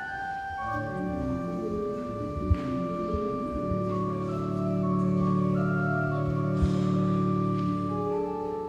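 Organ playing sustained chords, with a fuller low chord swelling in the middle of the passage.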